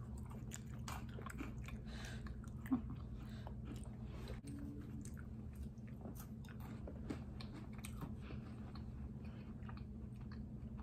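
Close-up chewing and biting of chocolate pieces: soft mouth sounds with many small scattered clicks, over a steady low hum.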